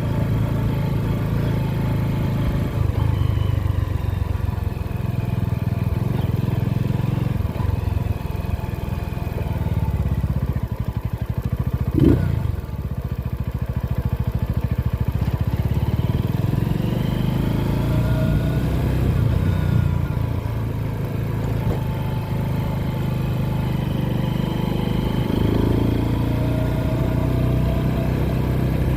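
Motorcycle engine running while riding, its pitch rising and falling as the rider speeds up and eases off. There is a brief sharp knock about twelve seconds in.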